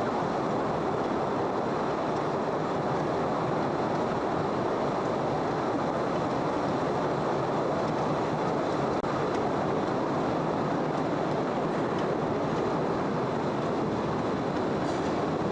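The Postojna Cave tourist train running along its narrow-gauge track, heard from aboard an open car: a steady, even rumble and rattle of wheels on rails.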